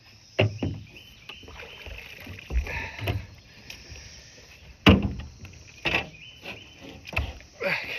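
Water splashing with several sharp knocks and thumps, the loudest about five seconds in: a large, freshly landed brown trout being handled in the water.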